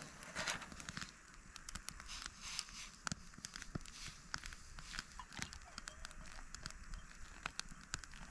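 Wood campfire crackling, with irregular sharp pops and snaps over a low hiss, a little denser during the first second.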